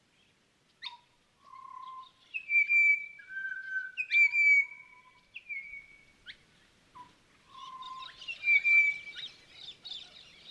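Birdsong: clear whistled notes, each held at one pitch, broken by quick sweeping calls, with a busier chorus of calls in the last few seconds.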